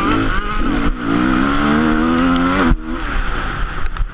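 Motocross bike engine accelerating, its pitch climbing steadily for about two seconds before dropping off sharply about two-thirds of the way in, then running on rougher and lower.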